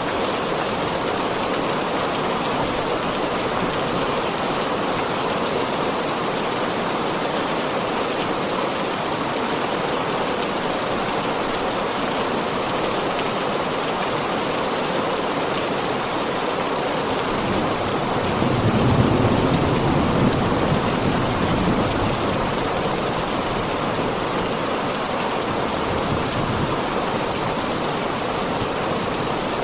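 Heavy rain falling steadily, with a low rumble of thunder that swells and fades about two-thirds of the way through.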